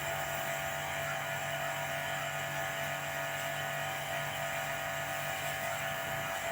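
Steady machine hum over a constant hiss, unchanging throughout.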